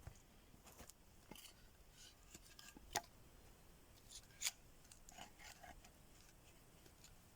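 Faint knife work on vegetables: scattered small cutting and scraping clicks, with two sharper clicks about three and four and a half seconds in.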